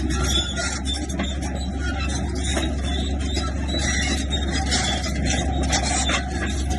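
Bulldozer's diesel engine running steadily under load, with a constant clatter of metal clicks and rattles over it.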